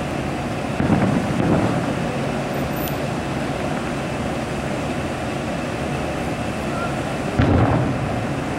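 Distant fireworks shells bursting: two dull booms, one about a second in and one near the end, over a steady background rumble and hiss.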